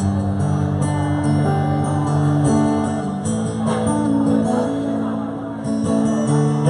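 Live band playing an instrumental break between verses of a song, led by strummed guitar.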